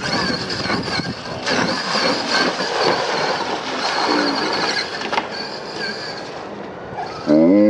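Electric motors of radio-controlled mud trucks running, a high wavering whine over a churning noise. A brief, louder pitched sound whose pitch bends comes near the end.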